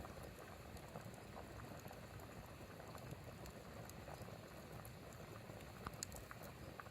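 A pot of water boiling over a wood fire, bubbling steadily, with a few sharp pops about six seconds in.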